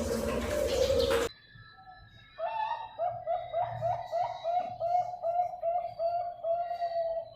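Zebra dove (perkutut) cooing: a quick run of about a dozen short coo notes, two to three a second, starting a couple of seconds in after a brief hush. Before it, a louder noisy sound cuts off abruptly just over a second in.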